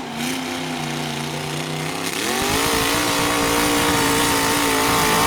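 Demolition derby pickup truck engine running, then revving up sharply about two seconds in and held at high revs.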